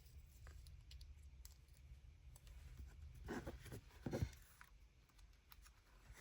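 Faint handling sounds of a small metal clip and paper crafting pieces: scattered light clicks and rustles, with a louder cluster of clicks a little past the middle.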